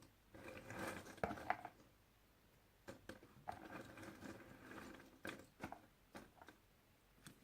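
Puzzle pieces being handled: soft rustling and sliding with several sharp little clicks and taps as pieces are picked up and set down.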